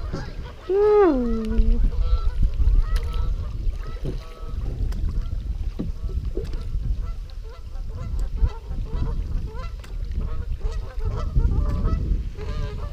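Wind buffeting the microphone in a low rumble. About a second in comes one long cry that rises and then falls, followed by faint scattered short calls.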